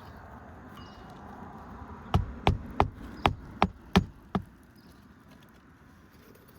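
Hammer driving a roofing nail to fasten an asphalt shingle back down: seven sharp strikes in quick succession, about three a second, starting about two seconds in.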